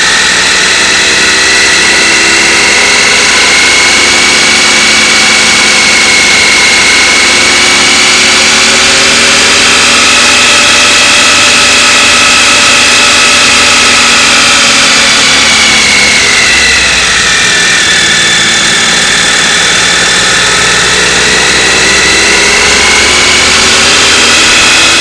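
Motorcycle engine running while riding, loud and steady, its pitch rising and falling slowly as the revs change, over a steady rush of noise.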